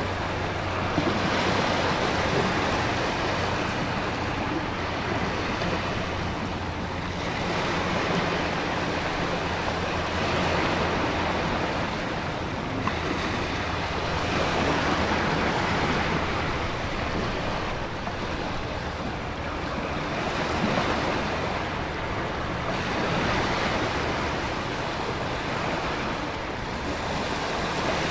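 Stormy ocean ambience: surf rising and falling in slow swells every few seconds under a steady hiss of heavy rain and wind.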